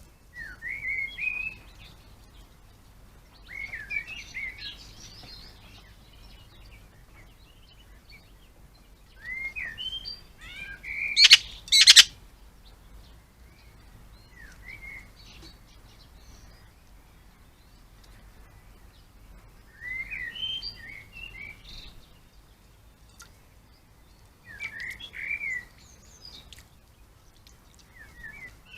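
A garden songbird sings short chirping phrases, a few seconds apart, with quiet between them. Two sharp knocks sound close together about eleven seconds in, louder than the song.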